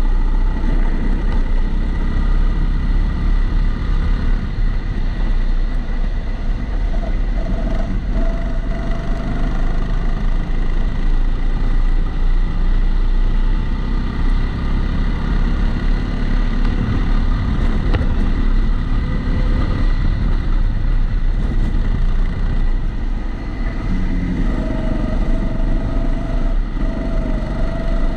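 Kombikart Eco kart driving on track, heard onboard and muffled, with a steady high-pitched tone running through it. The uploader puts this extra noise down to the camera sitting in a housing.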